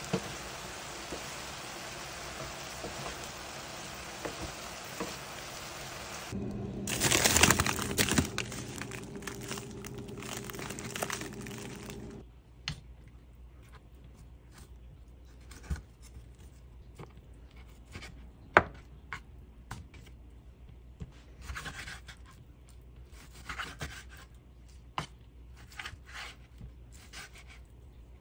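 String beans and pork sizzling and frying in a skillet while a spatula stirs them. A louder stretch with a steady hum follows. From about twelve seconds in, a chef's knife slices raw pork on a wooden cutting board, with scattered soft knocks of the blade on the board.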